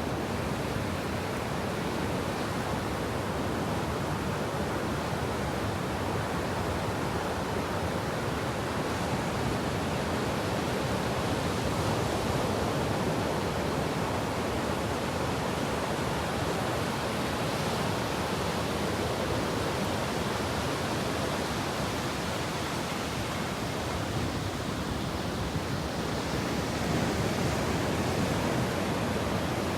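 Sea surf washing onto the beach: a steady rushing noise that swells gently every few seconds.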